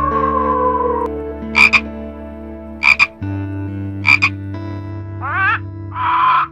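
A wolf's howl tails off slightly and ends about a second in. Then a toad gives three short, loud croaks about a second and a quarter apart. Near the end comes a harsh squawk from a blue-and-gold macaw.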